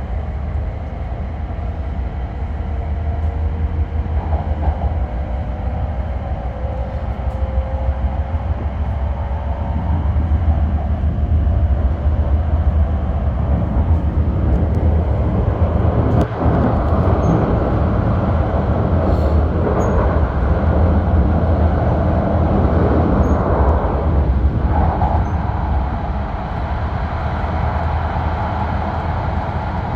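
H5 series Shinkansen heard from inside the car while running: a steady low rumble, with a faint rising whine in the first few seconds and the noise growing louder and fuller through the middle.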